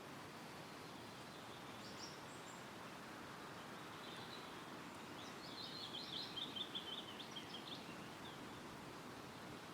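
Steady wind rustling through woodland trees, with a songbird singing: a short high call about two seconds in, then a fast run of high notes lasting about two and a half seconds midway.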